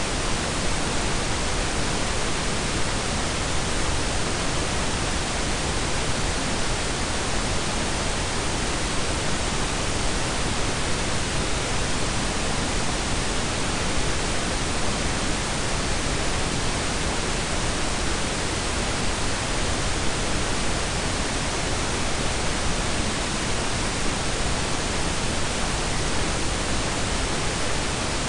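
Synthetic blended pink and brown noise: a steady, even hiss without variation.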